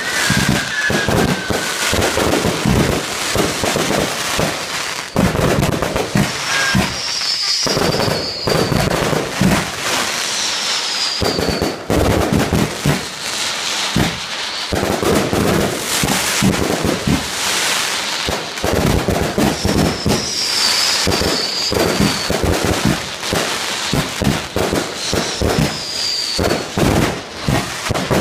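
Fireworks display: a dense, unbroken run of bangs and crackling, with a few short falling whistles from shells at several points.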